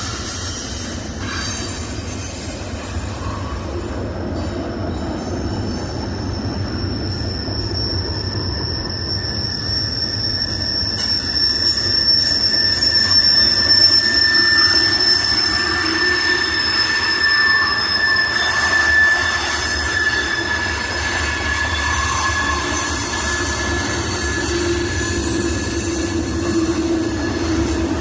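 Freight cars of a long Norfolk Southern manifest train rolling past with a steady rumble of wheels on rail. High, drawn-out wheel squeal rings over it and grows louder in the middle.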